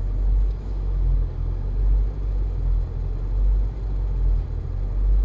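Low, steady rumble of an off-road vehicle's engine running while the vehicle waits, swelling and easing about once a second.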